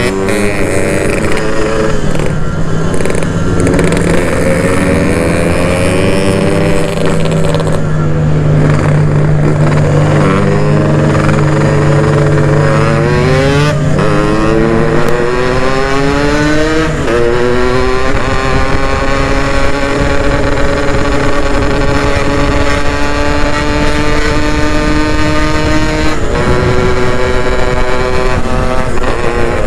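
Yamaha RX-King two-stroke single-cylinder engine being ridden. It revs up through the gears in repeated rising sweeps, with a drop in pitch at each shift, then settles into steady cruising for the second half. A steady low drone runs under it for the first half.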